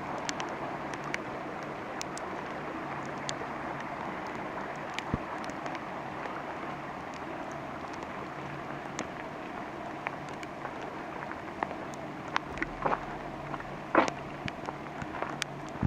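Steady rain falling in a redwood forest: an even hiss with scattered sharp taps of individual drops landing nearby, a few louder drops close together near the end.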